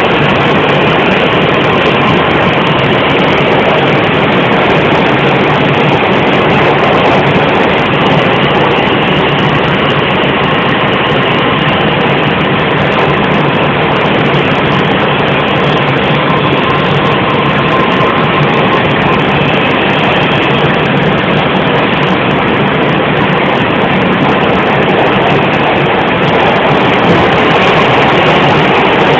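A New York City 5 train's R142 subway car running between stations, heard from inside the car: a loud, steady rumble of wheels and motors, with a faint high tone running through it.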